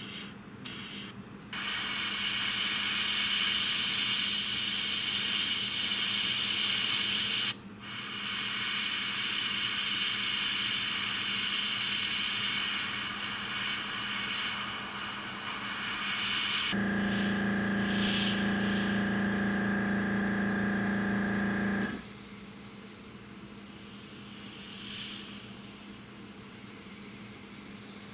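Airbrush spraying paint with a steady hiss, broken once briefly at about seven and a half seconds. About seventeen seconds in, a compressor motor starts with a steady hum for about five seconds and then cuts off, after which only faint hiss remains.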